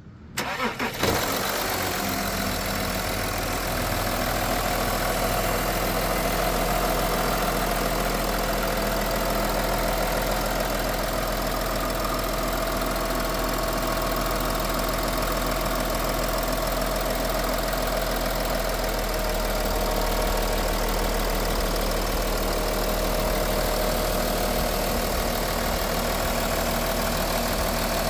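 2016 Volkswagen Touareg engine cold-started: a brief crank, catching about a second in, then idling steadily. The low note of the idle shifts slightly about two-thirds of the way through.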